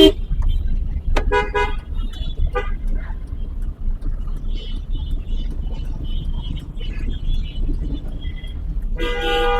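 Car horns tooting in traffic over a steady low rumble of road and engine noise: a few short toots between one and three seconds in, and a longer horn blast near the end.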